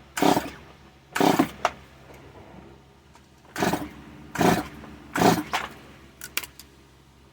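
Stihl MS 170 two-stroke chainsaw being pull-started: about five quick rope pulls, each a short rasping burst of cranking, and the engine does not catch. The owner afterwards suspects a wet spark plug.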